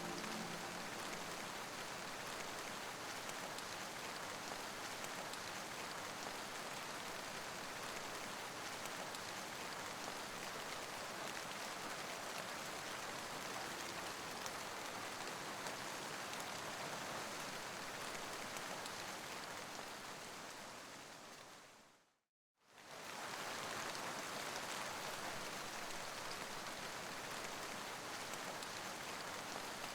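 Steady rainfall ambience. About twenty seconds in it fades out to a second of silence, then starts again at the same level, as a looped rain track restarting.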